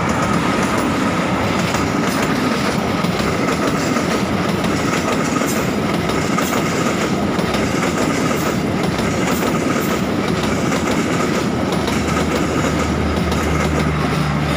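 A passenger train passes close by: a KAI CC206 diesel-electric locomotive, then its coaches, with the wheels clattering over the rail joints. A thin steady whine runs through it. Near the end the low hum of the generator car's diesel engine joins in as it goes by.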